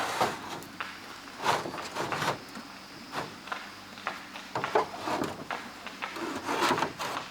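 Irregular scrapes and knocks from hand work, some short and some drawn out, coming every second or so.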